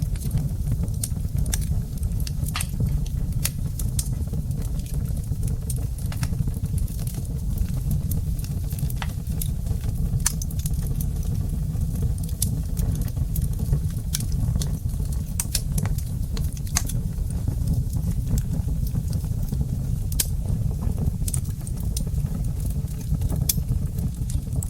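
Wood fire crackling in a fireplace: irregular sharp snaps and pops, several a second, over a steady low rumble of burning.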